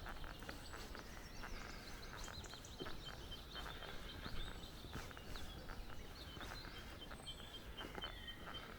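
Small forest birds chirping and twittering throughout, with scattered footstep clicks on the path over a steady low rumble.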